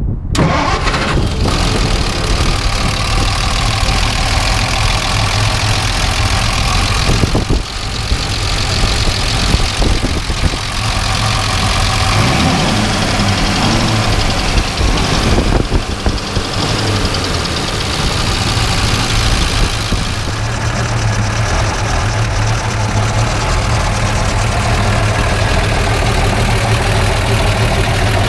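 1935 International Harvester C-35 armored truck's 241 cubic inch overhead-valve six-cylinder engine running steadily, heard from inside the truck's steel body, with brief dips about 7 and 15 seconds in.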